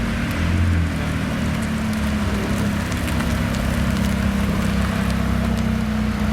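Car engine running at a steady speed, a low drone mixed with a rushing haze of road and wind noise.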